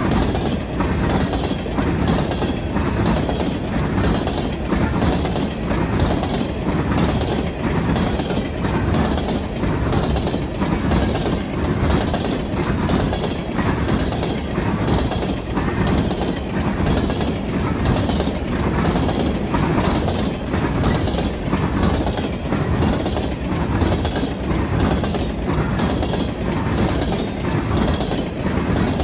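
Coal train's gondola cars rolling past: a steady rumble of steel wheels on rail with an even clickety-clack as the wheels cross rail joints, a bit more than one click a second.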